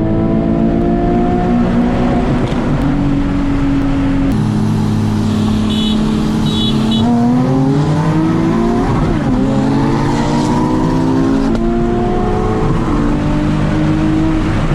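A sports car engine accelerating hard through the gears: its pitch climbs steadily and drops sharply at each upshift, three times. Two short electronic beeps sound about six seconds in.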